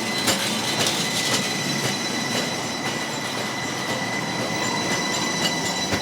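A DC Streetcar running along its rails: a steady high-pitched whine from the car over a running rumble, with a few sharp clacks in the first second and a half.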